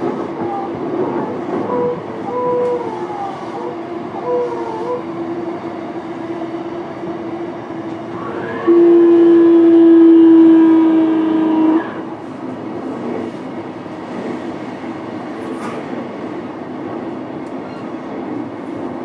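Running sound of an E233-series electric train heard from inside a motor car, with a train horn sounding one steady note for about three seconds midway.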